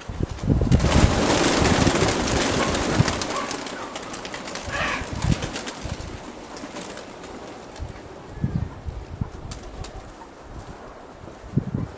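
Nikolaev pigeons cooing and flapping their wings, with a strong gust of wind buffeting the microphone for the first few seconds and briefer gusts later.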